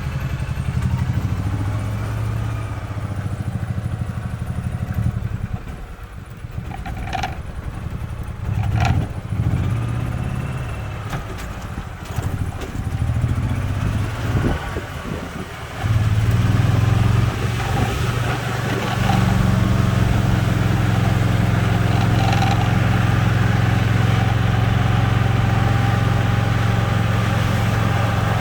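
EZ-GO golf cart running and being driven, its motor hum rising and falling in the first half, with two sharp clicks, then holding steady and louder through the second half.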